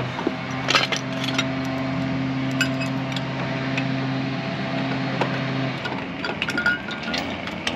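Scattered metal clinks and clicks of tools and bolts being handled, over a steady low hum that stops about three-quarters of the way through.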